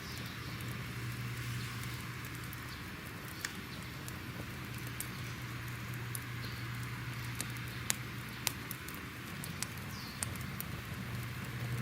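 Wood fire crackling: a steady hiss and low rumble with scattered sharp pops and snaps, the loudest two close together near the end.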